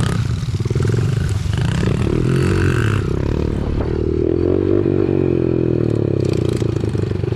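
Small four-stroke pit bike engine running under throttle, its revs rising and falling.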